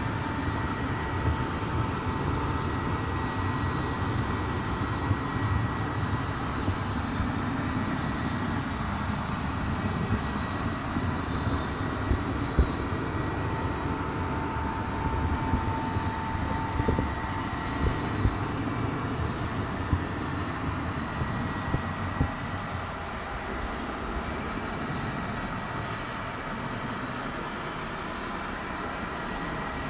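Train running on rails: a steady low rumble with scattered knocks, and faint steady whining tones over it. The rumble eases a little about two-thirds of the way through.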